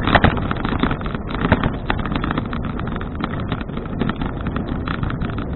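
Wind buffeting the microphone of an action camera on a moving bicycle, over a steady road rumble. Frequent clicks and knocks from the bike run through it, the loudest just after the start and about a second and a half in.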